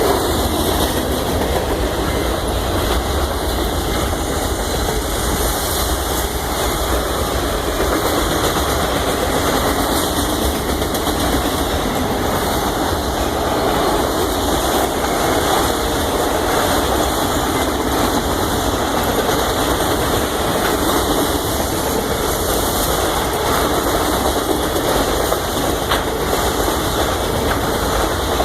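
Union Pacific train rolling past close by: a steady, loud rumble and rattle of wheels on the rails, with no horn sounding.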